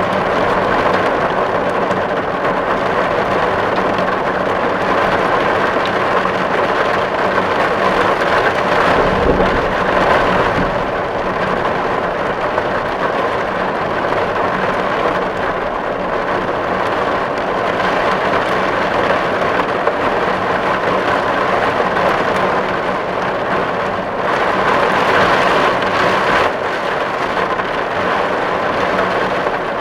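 Steady heavy rain falling on a tin roof, a dense hiss of drops on the metal, with a brief low rumble about nine seconds in.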